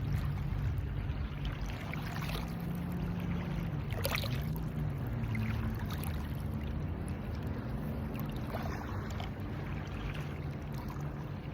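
A motor hums steadily, its pitch wavering slightly, over a light wash of water and wind noise. There is a sharp tap about four seconds in.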